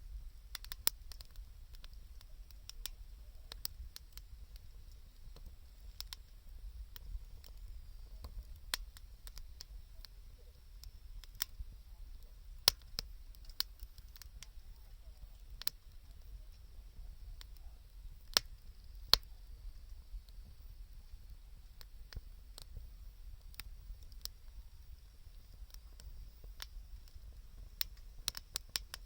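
Wood fire crackling: irregular sharp snaps and pops, a few much louder than the rest, over a low steady rumble.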